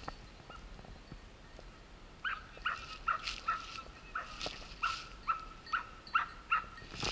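A bird calling over and over, a run of about eleven short, identical calls at roughly two a second that begins about two seconds in and stops shortly before the end.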